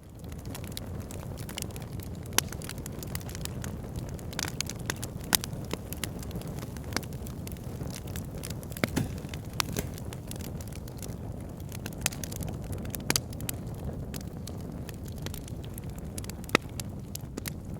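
Fire pit burning and crackling: a steady low rumble of flame with frequent sharp crackles and pops, and a handful of louder snaps spread through.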